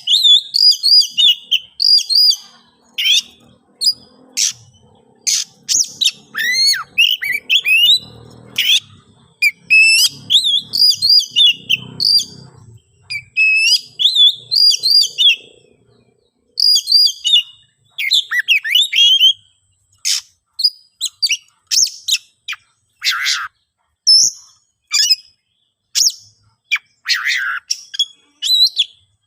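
Oriental magpie-robin (kacer) singing an agitated, territorial song: fast phrases of sharp, varied whistles, chirps and trills, broken by short pauses, the aroused fighting song that keepers use to provoke rival birds.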